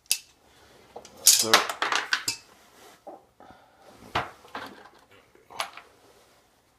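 Metal parts of a two-stroke silencer clinking and clattering as they are handled and set down: a sharp clink at the start, a burst of rattling about a second in, then a few single knocks.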